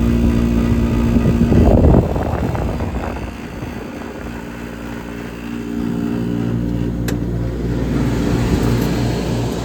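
1962 Sears Coldspot casement window air conditioner with an AU pancake compressor running: a steady hum from its fan and compressor, with a louder rush about two seconds in, after which the hum dips and builds back up from about six seconds in.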